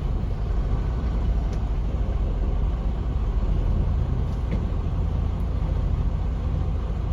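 Tractor-trailer's diesel engine running low and steady while the truck backs slowly toward a dock.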